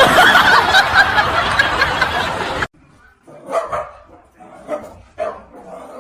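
A dog barking: a dense, loud stretch that cuts off suddenly, then several short, separate barks.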